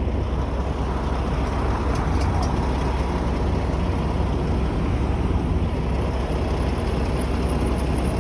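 Steady low rumble of road traffic, cars and trucks on the move.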